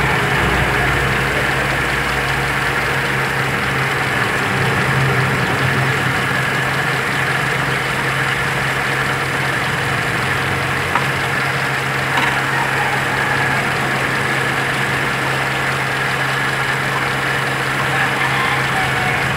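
Toyota 4A-F 16-valve carbureted inline-four engine idling steadily, with two brief clicks partway through.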